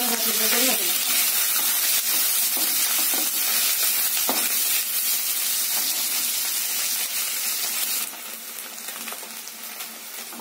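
Paneer cubes sizzling as they shallow-fry in hot oil in a non-stick kadai, with the spatula scraping and clicking against the pan as they are stirred. The sizzle drops quieter about eight seconds in.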